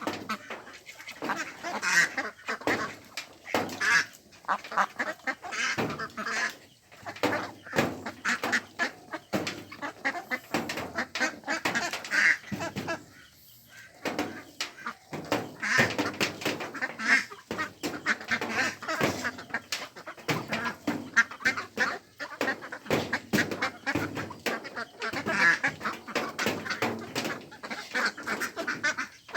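A flock of ducks quacking busily, many short overlapping quacks, with a brief lull about halfway through.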